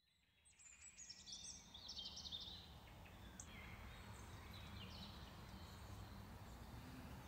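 Faint ambience of birds chirping over a low steady rumble, the chirps mostly in the first few seconds.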